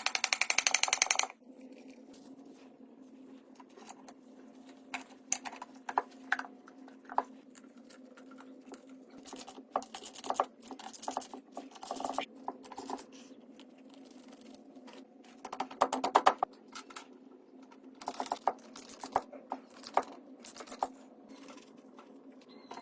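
A ratchet wrench clicking rapidly for about a second, then scattered light clicks and knocks of hand tools working on metal, over a steady low hum.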